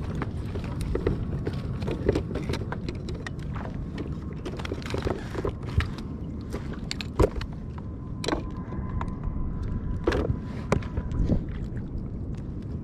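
Wind and water noise on a sit-on-top ocean kayak, with irregular clicks and knocks from gear being handled on board, a few sharper ones about two, seven, eight and ten seconds in.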